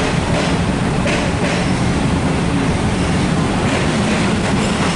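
Hitachi diesel multiple unit heard from inside the carriage as it rolls along: a steady diesel and running rumble, with a few irregular wheel clacks over rail joints.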